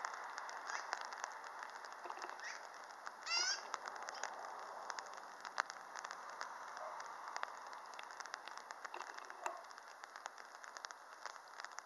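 Black-billed magpies and other birds calling among trees. A short, rapid chattering call comes about three seconds in, with scattered brief calls and clicks over a steady hiss.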